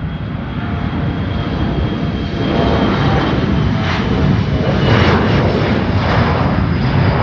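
Jet airliner's engines passing close, a dense rumble with a faint high whine that grows louder over the first few seconds and then holds loud.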